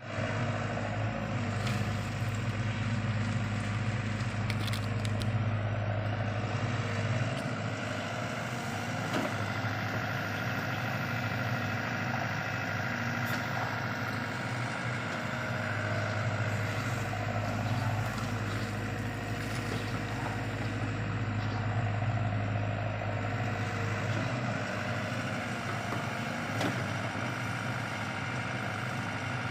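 LiuGong CLG908E excavator's diesel engine running steadily at idle, with a deep, even hum and a few faint clicks.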